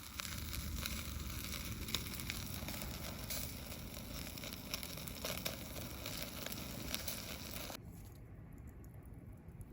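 Wood campfire crackling and hissing, with scattered sharp pops. The hiss cuts off suddenly near the end.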